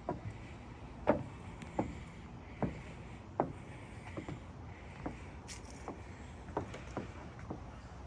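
Footsteps walking at an even pace, a sharp step about every three-quarters of a second, over a faint steady background hiss.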